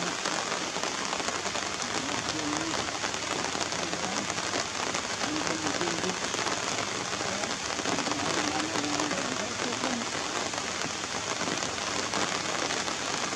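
Steady rain falling on wet surfaces, an even hiss that holds at the same level throughout.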